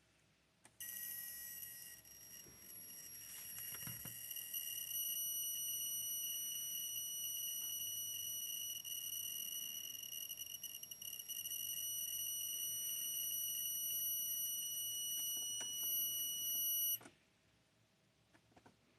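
LG W2243S LCD monitor whistling: a steady, shrill high-pitched whine made of several tones, the fault it is in for repair. It starts about a second in and cuts off sharply near the end.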